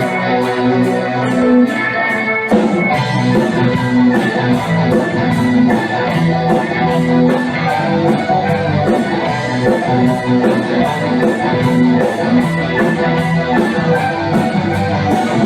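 Rock band's instrumental passage: guitars playing over bass and a steady drum beat.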